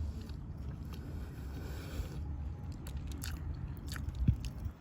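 Someone biting into and chewing a meatball sub close to the microphone, with scattered small crunches and clicks and a single thump about four seconds in, over a steady low rumble.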